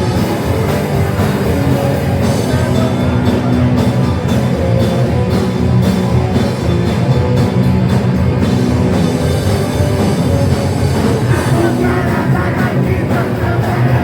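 Punk band playing live: loud rock music with guitar and drums, continuous and at full volume.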